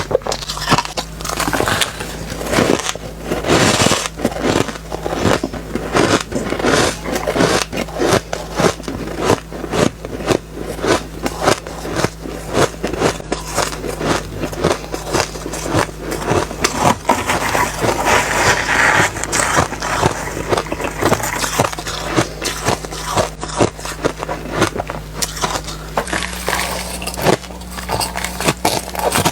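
Close-miked bites and chewing of refrozen soft ice, a dense run of sandy, crackly crunches with some slightly squeaky bites.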